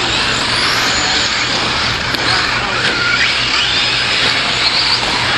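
Radio-controlled 4WD short course trucks racing: a steady rush of motors and tyres on the track, with faint whines that rise and fall in pitch as the trucks speed up and slow down.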